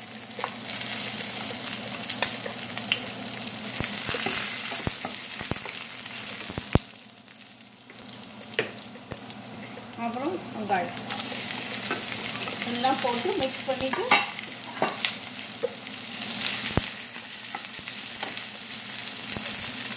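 Chopped garlic and dried red chillies sizzling in oil in a nonstick frying pan, stirred with a wooden spatula that clicks and scrapes against the pan. Sliced onion goes into the pan later on and is stirred through the sizzle. The sizzle drops briefly about seven seconds in.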